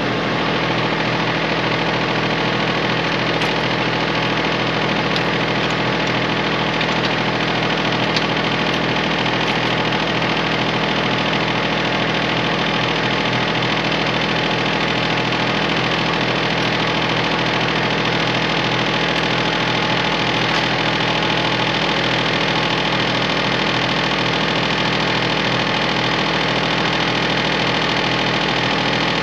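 Kubota tractor's diesel engine running at a steady speed.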